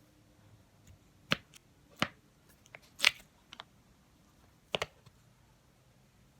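A handful of separate sharp clicks and taps, with the loudest about three seconds in and a quick double click near the end, from small objects being handled.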